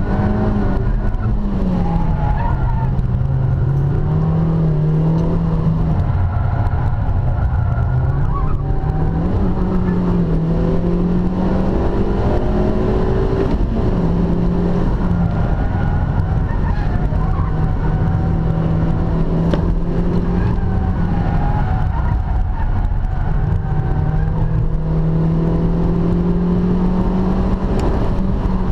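Stock second-generation Suzuki Swift Sport's 1.6-litre four-cylinder engine, heard from inside the cabin while driven hard on a circuit. Its note climbs, drops at gear changes and holds through corners, over steady road and wind noise.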